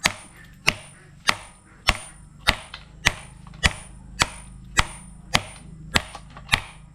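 Hammer blows struck at an even pace, about one and a half to two a second, each with a short ring, knocking on a part during engine disassembly.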